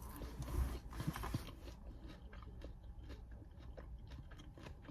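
A person chewing food close to the microphone, with many small wet clicks and soft crunches, over a low steady hum.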